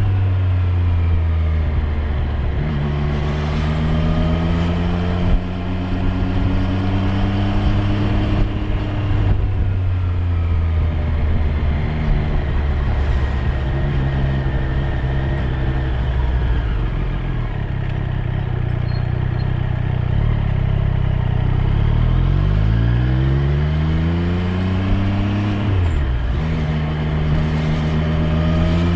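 Triumph Street Triple 765 R's inline three-cylinder engine under way, its revs rising and falling with the throttle and gear changes. The note climbs steadily for the first several seconds and drops, holds fairly even through the middle, then climbs quickly and drops sharply at an upshift near the end.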